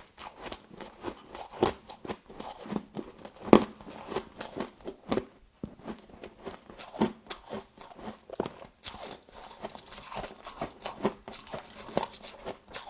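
Close-miked crunching and chewing of frozen humidifier frost, irregular crackling bites several times a second.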